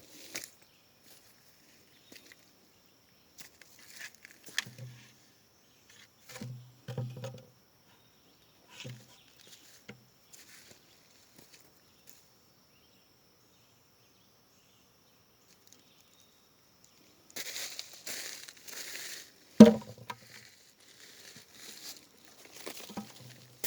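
Sporadic rustling and crunching of forest-floor litter being stepped on and handled, with a few dull thuds and a faint steady high tone that stops about 17 seconds in. Near the end the rustling turns dense and continuous, and a single sharp knock comes about 20 seconds in.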